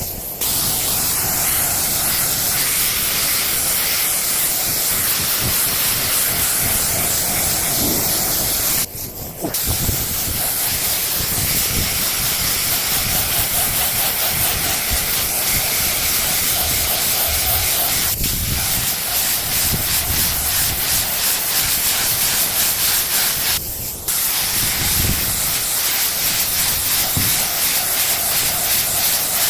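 Compressed-air paint spray gun hissing steadily, its trigger let off briefly a few times between passes.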